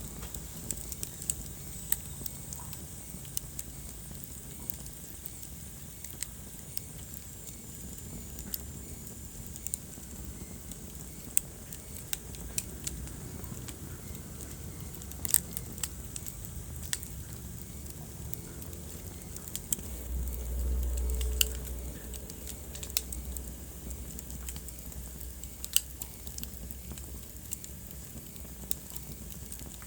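Wood fire crackling, with scattered sharp pops and snaps over a low steady rumble of the flames. The rumble swells briefly about two-thirds of the way through.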